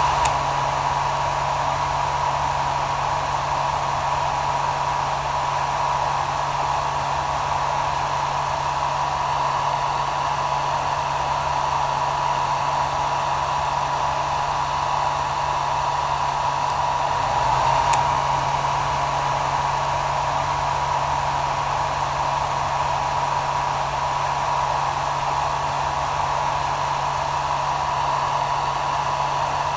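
Hair dryer running steadily: a constant rush of air with a steady whine and a low hum. A faint click comes just after the start and again about eighteen seconds in.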